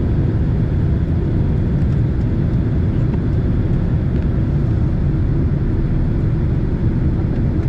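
Steady low rumble and rush of a Boeing 767 in flight, heard from inside the passenger cabin: the jet engines and the airflow over the fuselage.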